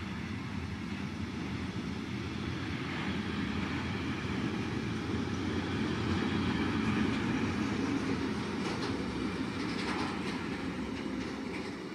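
A train passing on the line, wheels clacking over the rail joints. The rumble builds to its loudest about halfway through, then eases off.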